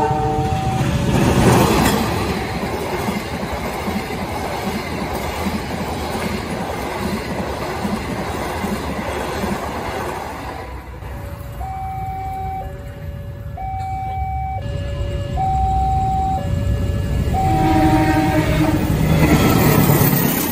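Passenger train rolling past a level crossing at speed: a loud rush and rumble of wheels on rail, loudest about a second or two in. About halfway through, the crossing's electronic warning alarm is heard alternating between two tones, about a second each. Near the end a second train approaches with its diesel locomotive's horn and a rising rumble as it passes.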